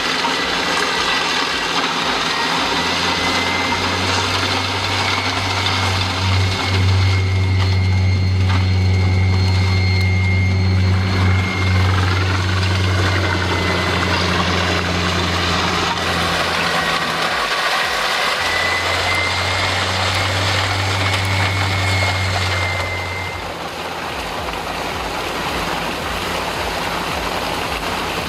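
Heavy machine's engine running steadily over a dense mechanical noise, with a thin high whine. The engine note dips for a moment about two-thirds of the way through, comes back, then eases off near the end.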